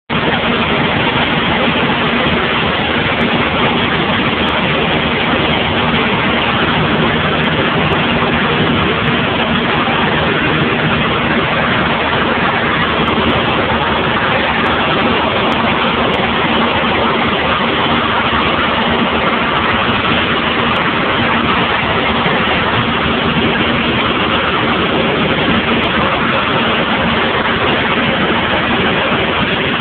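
Cessna 172 light aircraft's piston engine and propeller running steadily: a loud, even drone with a constant low hum.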